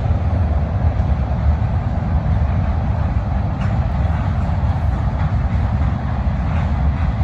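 Long CSX mixed freight train's cars rolling past, a steady loud rumble with a few faint clicks of wheels over the rail joints.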